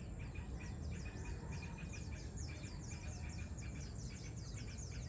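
Many small birds chirping in a busy chorus of short, high, falling notes repeated rapidly, over a steady low background rumble.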